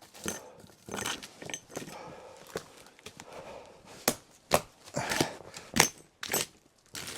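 Dry dead wood snapping and cracking in a string of sharp, irregular breaks as twigs and small branches are broken off a limb to clean it.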